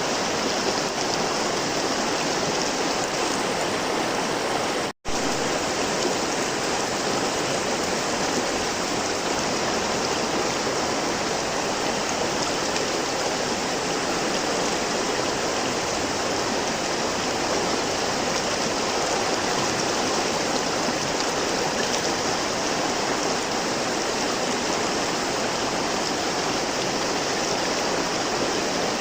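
River water flowing steadily, an even rushing with no pauses except a split-second dropout about five seconds in.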